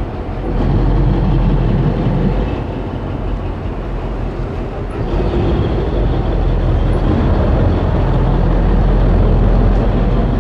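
An engine running with a steady low rumble and hum.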